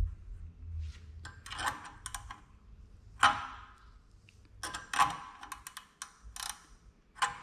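Scattered clicks and knocks of metal parts being handled in a workshop, with the loudest knock about three seconds in.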